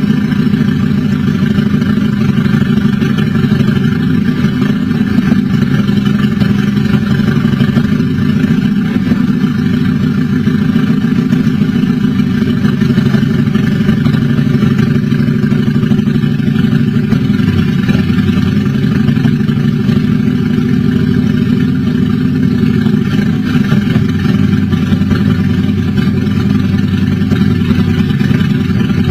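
Custom motorcycle engine running steadily, with an even level and no revving or change in pitch throughout.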